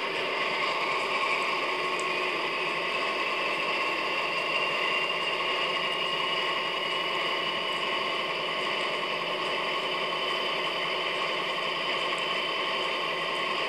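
Recorded sound of a DB class 225 diesel locomotive's original MTU 12V 956 TB11 twelve-cylinder engine running steadily, with a high whine that rises slowly over the first few seconds and then holds.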